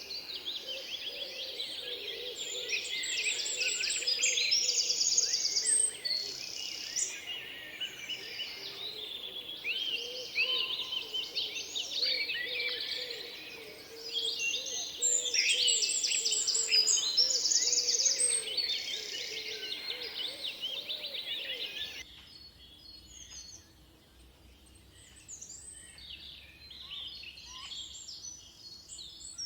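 Chorus of many tropical birds singing and chirping over one another, with rapid trills and gliding whistles. About 22 seconds in it cuts abruptly to a quieter stretch of sparse, scattered bird calls.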